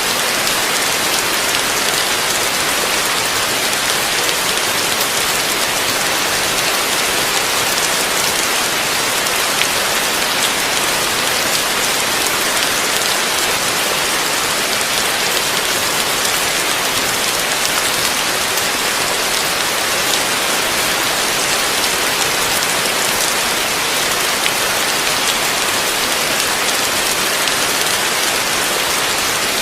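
Heavy rain falling steadily and densely, a constant hiss of many drops with no let-up or thunder.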